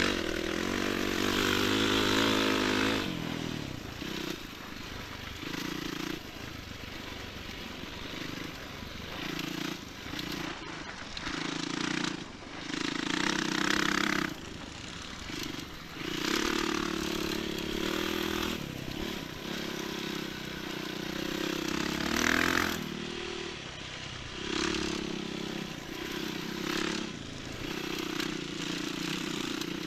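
Enduro motorcycle engine running while riding, its revs repeatedly rising and dropping every second or two, with bursts of rushing noise from wind and the dirt track.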